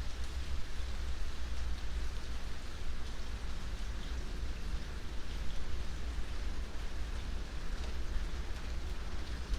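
Steady rain falling, with a continuous hiss and scattered individual drops ticking on a surface over a deep low rumble.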